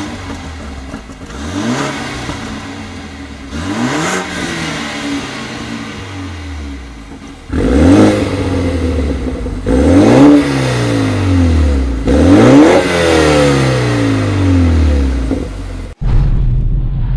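BMW 428i's turbocharged four-cylinder engine revved through a Remus sport exhaust: about five blips of the throttle, the pitch rising quickly and falling back slowly each time. The first two are light, and the last three, from about halfway in, are louder.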